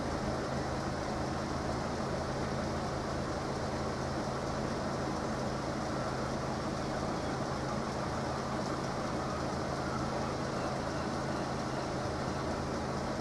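Road vehicles idling steadily while held at a closed level crossing, a constant low engine hum under a wash of street noise.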